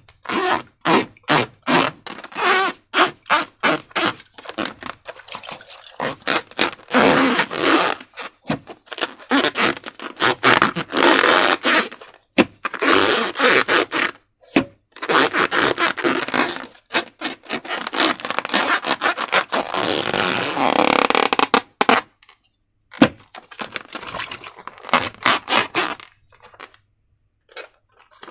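Slime and a transparent balloon handled by hand: a quick irregular run of short squishing and scraping sounds, a few a second, dropping to faint sounds near the end.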